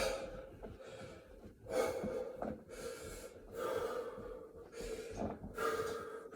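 A man breathing hard and gasping between Navy SEAL burpees, a quick string of heavy breaths from exhaustion mid-set.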